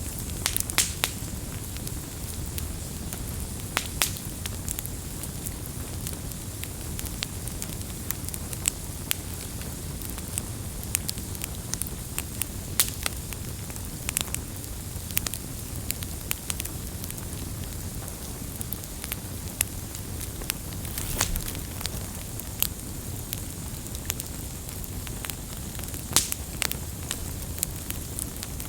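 Wood campfire burning with a steady low rumble and frequent irregular pops and crackles.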